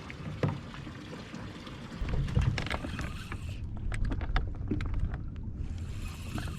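Outdoor noise on a fishing boat: a steady low rumble of wind and water that gets louder about two seconds in, with scattered sharp clicks and knocks of handling in the boat.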